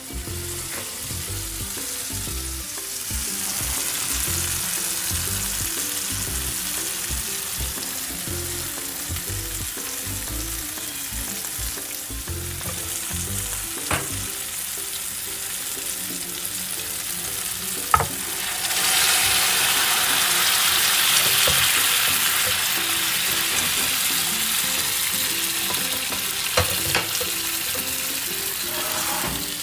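Yellow lentil dal sizzling in a frying pan on a gas burner while a wooden spoon stirs it. The sizzle is steady, then grows louder about two-thirds of the way through, with a few sharp clicks of the spoon against the pan.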